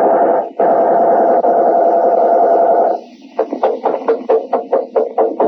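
Radio-drama opening sound effect from an old broadcast recording: a steady buzzing tone with a brief break about half a second in, cutting off after about three seconds. It is followed by a rapid run of short beeps, about four or five a second, like a police radio signal.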